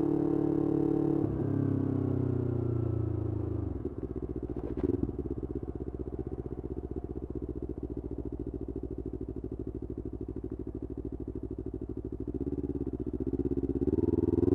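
Yamaha R25's parallel-twin engine through an aftermarket Kea Speed exhaust: the revs fall away over a couple of seconds and settle into an even, pulsing idle, with a single sharp exhaust pop about five seconds in. Near the end the revs climb again.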